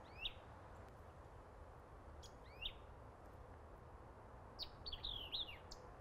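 Small birds chirping: a short sweeping call near the start and another about two and a half seconds in, then a quick run of several chirps near the end, faint over steady background noise.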